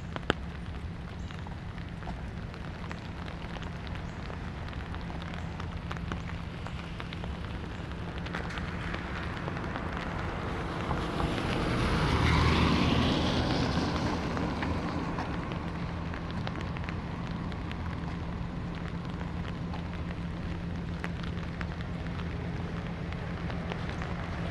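Steady light rain ambience on a residential street, with a vehicle passing on the wet road about halfway through, swelling up and fading away over a few seconds.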